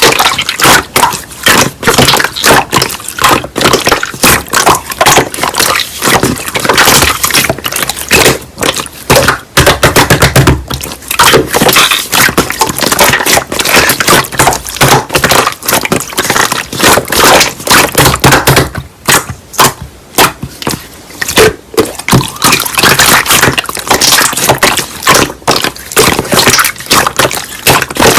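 Slime being squeezed and pressed by hand, giving a dense, irregular run of sharp clicks and pops with brief pauses.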